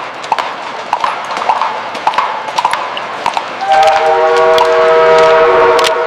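Busy station ambience: a clatter of many quick knocks and steps over a noisy hum, then a steady horn or whistle tone sounding for about two seconds in the second half.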